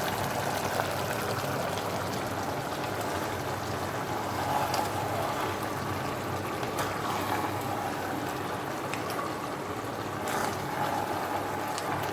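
Chicken and potato curry cooking in a pot on the stove, a steady watery sizzle and bubble with a few small pops, as the meat releases its water.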